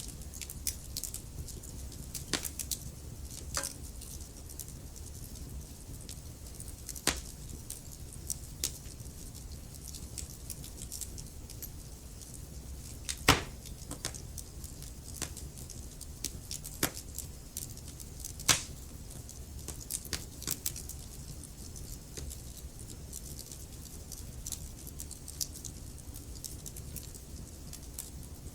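Wood fire crackling in a fireplace: a low steady rush of flames with frequent small irregular crackles and a couple of louder sharp pops about halfway through and a few seconds later.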